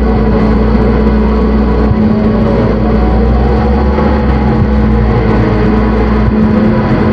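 Loud, dense electronic drone from analogue synthesizers: layered sustained tones over a deep bass hum, with a grainy noise texture on top. The deepest bass briefly thins out about two seconds in and again near the end.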